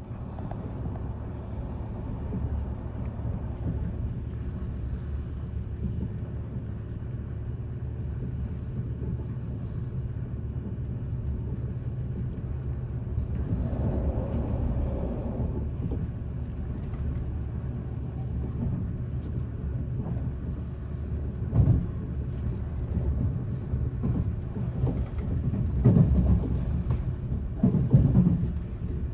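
A DB class 612 tilting diesel multiple unit heard from inside the passenger cabin while running at speed: a steady rumble of wheels on rail under a low engine hum. A few sharp knocks come from the wheels on the track, once about three quarters of the way through and twice more near the end.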